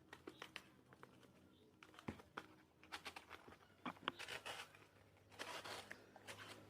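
Faint, scattered clicks and short rustles of handling, over quiet room tone.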